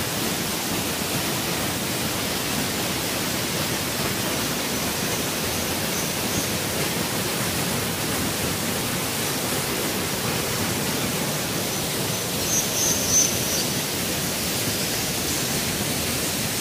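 Waterfall pouring into a shallow pool inside a rock sinkhole, a steady rushing of water. Brief high chirps come through faintly about six seconds in and again about three-quarters of the way through.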